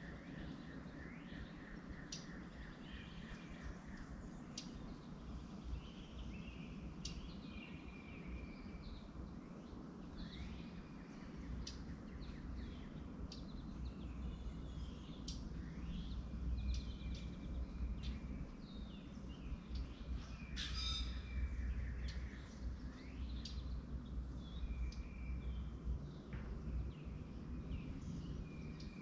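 Small birds chirping and calling repeatedly, with many short, quick calls and a buzzy trill in the first few seconds, over a low background rumble.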